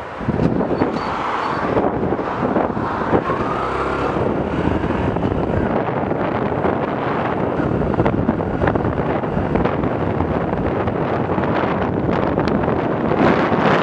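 Yamaha YBR 125's single-cylinder four-stroke engine pulling the bike along the road, its note rising in the first few seconds as it accelerates, mixed with heavy wind noise on the microphone.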